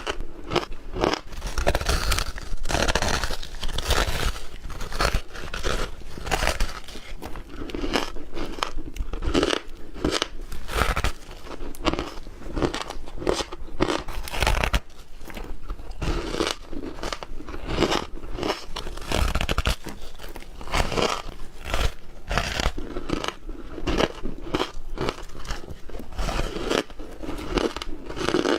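Close-miked biting and chewing of ice: dense, irregular crunching, one bite after another.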